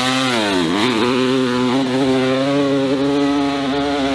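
Dirt bike engine revving hard under load up a steep climb. The revs sag briefly about half a second in, then pick back up and hold high and steady.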